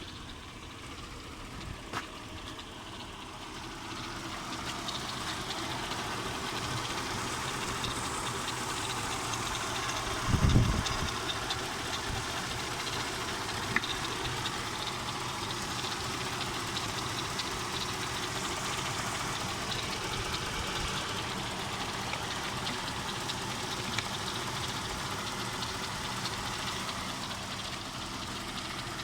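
Mercedes-Benz M113 5.0-litre V8 idling steadily, growing louder over the first few seconds. There is one short, loud low burst about ten seconds in.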